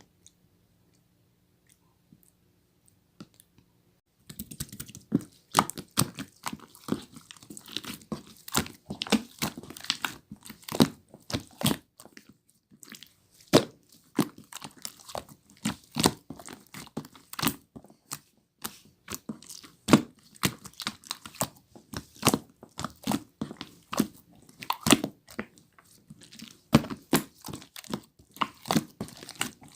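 Slime being squeezed, stretched and poked by hand, giving a dense, irregular run of sticky pops and crackling clicks that starts about four seconds in.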